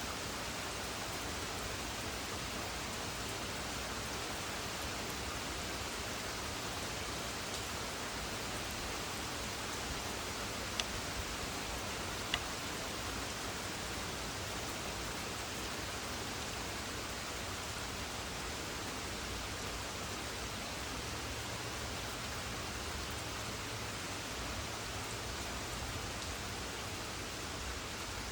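Steady rain, an even hiss with no change in strength, broken by two brief sharp clicks near the middle.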